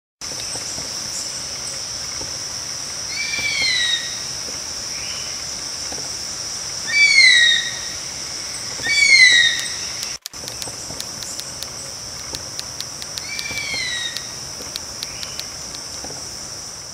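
A bird calling with a clear descending whistle, about five times, over a steady high-pitched insect drone. A run of faint rapid ticks comes in the second half.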